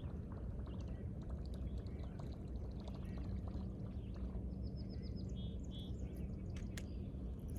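Small birds chirping over a steady low outdoor rumble, with a quick run of repeated high notes about five seconds in. A faint steady hum sits under it through the middle.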